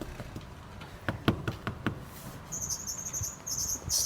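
A run of about seven sharp knocks, as on a door, in the first two seconds. Then, from about two and a half seconds in, a high, rapidly pulsing chirping starts up.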